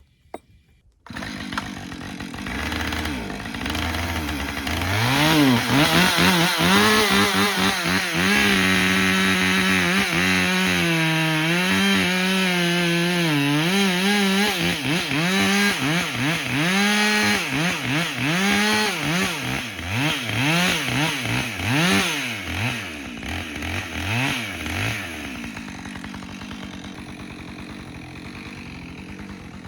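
Two-stroke chainsaw revving up to full throttle, its pitch dipping and recovering as it works. A run of short throttle blips follows, then it drops back toward a lower, steadier running near the end.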